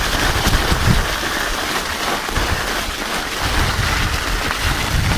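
Mountain bike with studded tyres rolling over an icy trail: a steady crackling hiss from the tyres, with wind rumbling on the microphone.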